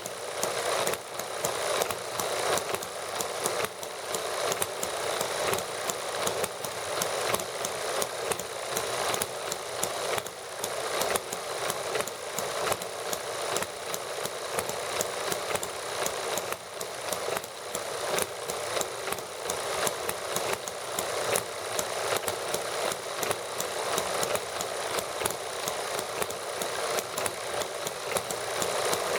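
Small model gasoline engines running steadily, a fast, even stream of ticks and pops from their firing.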